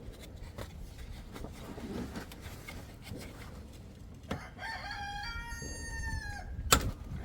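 A rooster crows once, a single call of about two seconds that drops in pitch at the end, over scattered small clicks of hand tools. A sharp metallic clack near the end is the loudest sound.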